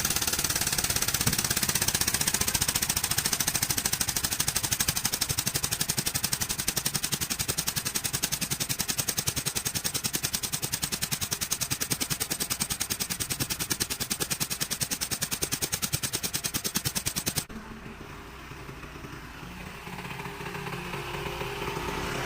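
Air tool hammering in a rapid, steady rattle, which stops abruptly about seventeen seconds in. A vehicle engine idles underneath and carries on alone after.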